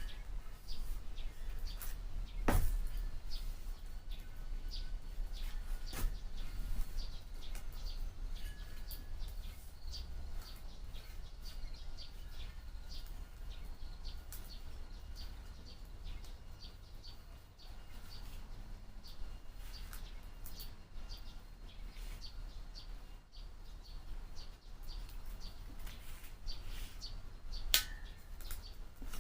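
Small birds chirping repeatedly over a steady low hum, with a few sharp knocks or clicks, the first about two and a half seconds in and another near the end.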